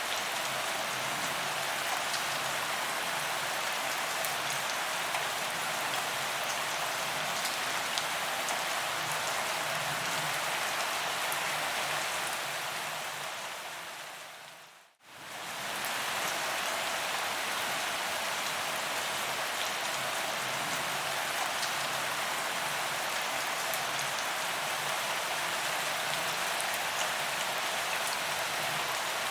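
Steady rain falling on a paved promenade, with the small taps of individual drops on the pavement. About halfway through, the rain fades out to a moment of silence and then fades back in.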